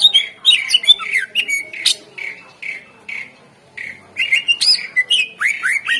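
Cucak ijo (green leafbird) singing a fast, varied song: quick down-slurred whistles, chirps and sharp clicking notes. The song thins to spaced repeated notes for a second or two in the middle, then picks up again with a fresh run of falling whistles.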